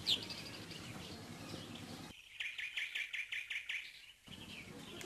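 Small bird chirping, with a quick run of about five high chirps a second in the middle.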